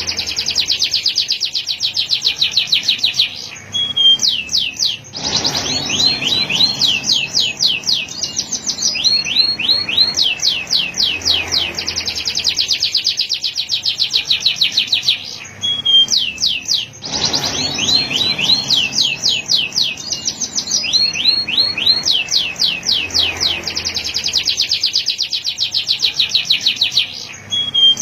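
Male canary singing: long rolls of rapid repeated notes, around ten a second, shifting pitch from roll to roll, with brief pauses between phrases. The same sequence of phrases repeats about every twelve seconds.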